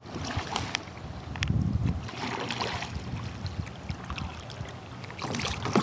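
Water splashing and sloshing around a kayak on the water, with scattered light knocks and clicks and a low, uneven rumble.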